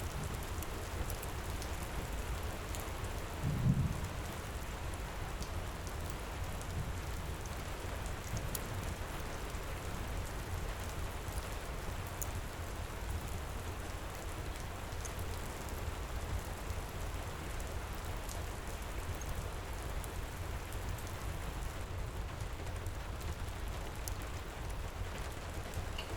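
Heavy rain pouring steadily with a deep low rumble under it, and scattered faint pops of a crackling fireplace. A brief low thump comes just under four seconds in.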